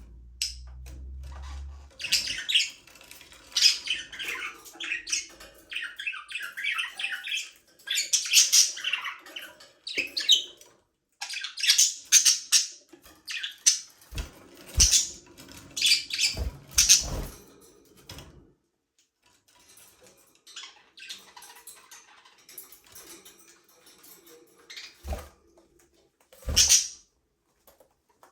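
Budgerigars chirping and chattering in quick irregular bursts, with a short lull about two-thirds of the way through. A few brief low thumps come among the chirps.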